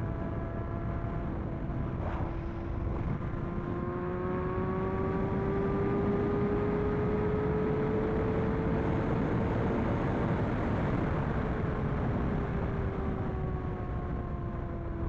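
A superbike engine held at high revs at speed, its note climbing slowly for most of the stretch and then easing back down near the end, over a steady rush of wind.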